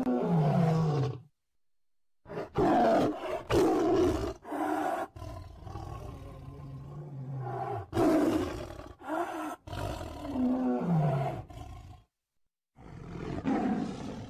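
Tiger roaring and growling in a run of separate calls: several short loud roars and one longer low call, some falling in pitch, broken by brief silences.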